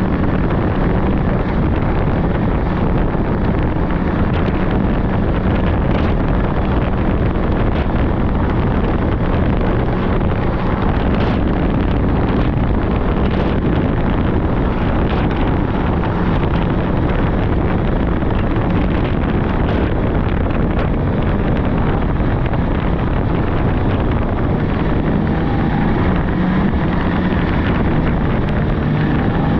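Polaris 600cc two-stroke snowmobile engine running steadily under way, with wind rushing over the microphone.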